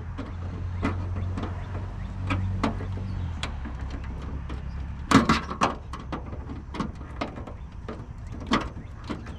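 Gardening clippers cutting and snapping brittle old plastic: scattered sharp clicks and cracks, with a louder cluster about five seconds in. A low steady hum runs underneath and stops about three seconds in.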